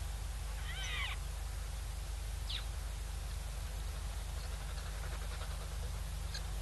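Short bird calls at a waterhole: a falling, mewing call about half a second in, then thin quick falling whistles later, over a steady low hum and hiss from the outdoor microphone.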